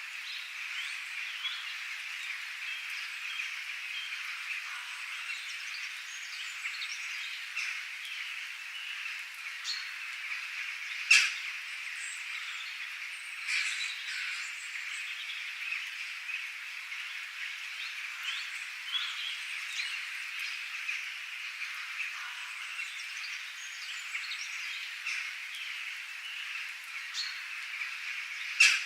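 Dense, continuous chorus of frog croaks mixed with bird calls, with two sudden sharp, loud clicks, one about eleven seconds in and one near the end.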